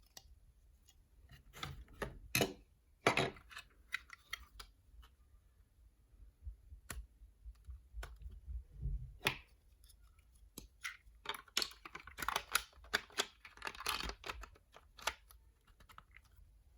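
Hands working at a boxed toy figure and its packaging: irregular clicks, scrapes and rustles, coming thickest in a cluster near the end.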